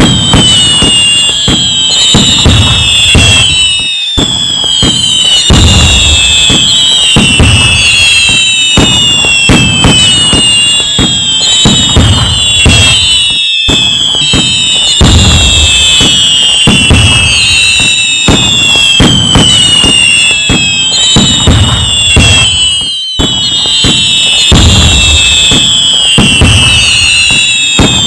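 Loud fireworks: many overlapping whistles falling in pitch, with booming bangs and crackling underneath, going on without pause. Short gaps about every nine seconds suggest a repeating loop.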